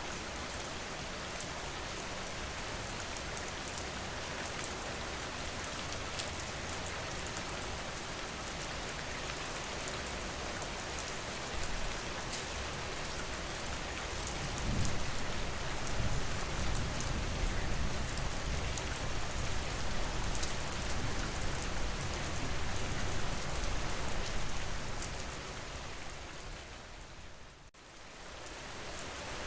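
Steady rain falling, with fine scattered drop ticks. A low rumble swells in about halfway through and fades out, and the sound dips briefly near the end.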